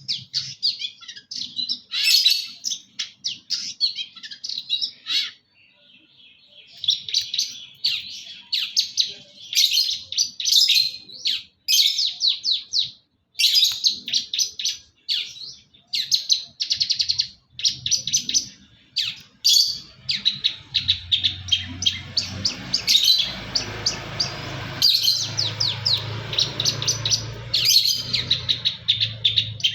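Long-tailed shrike singing: fast chattering runs of high, sharp chirps in bursts with short pauses, the mimicked fills of a bird in full song. About two-thirds of the way through, a low steady hum starts up under the song.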